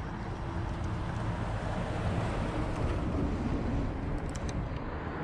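Steady rumble of road traffic on a highway causeway, mixed with wind on the microphone, with a few faint clicks about four seconds in.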